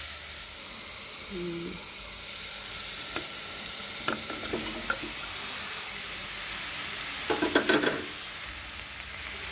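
Spice paste sizzling steadily as it fries in a stainless steel pot, stirred with a wooden spatula. Pre-boiled beef chunks are tipped in from a bowl, with scattered clicks from about three to five seconds in and a louder clatter of knocks about seven to eight seconds in.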